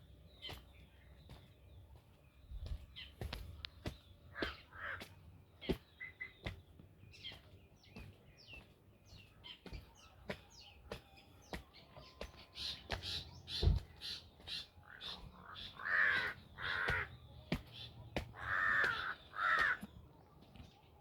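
Crows cawing several times in the second half, over smaller birds chirping, with scattered sharp clicks.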